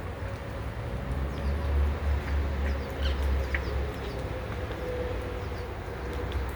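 A flock of wild parrots calling from a tree: many short, scattered squawks and chirps over a steady low rumble.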